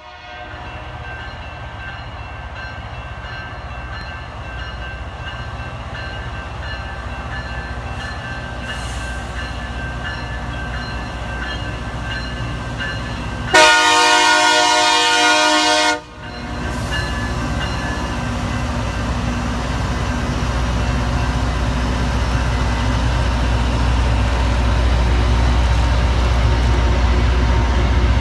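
Loram rail grinder train approaching and passing, its rumble and hiss growing steadily louder. One long horn blast of about two and a half seconds sounds about halfway through.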